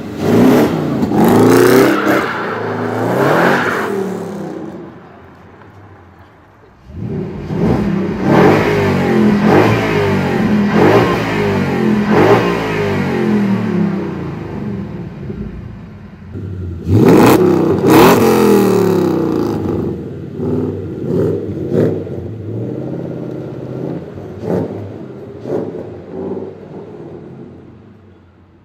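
Puritalia 427's supercharged 5.0-litre V8 being revved in repeated sharp blips, pitch climbing and falling with each one. It dips quiet for a couple of seconds after the first revs, the strongest rev comes about two thirds of the way in, and it trails off in shorter, lighter blips.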